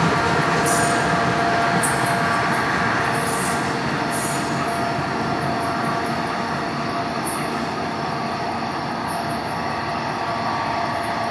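NJ Transit commuter train, hauled by a GP40PH-2 diesel locomotive, rolling away down the track with a steady rumble and a thin steel-wheel squeal. The sound slowly fades as the train recedes.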